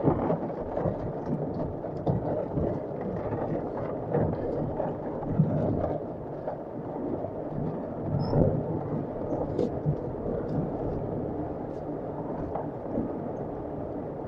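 Heavy rain drumming on the Land Rover Defender 110's body and windscreen, with the engine running low underneath as the vehicle crawls up the rock steps.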